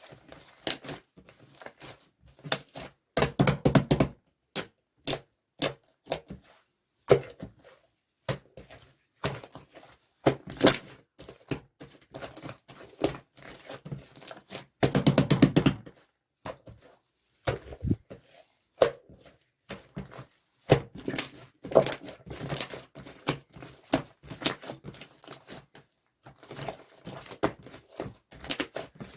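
Opaque slime mixed with white liquid clay being pressed and worked by hand, giving irregular wet clicks and pops. About 3 s and 15 s in come dense runs of rapid crackling pops.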